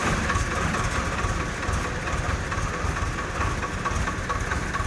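Tractor's diesel engine idling with a steady low chugging.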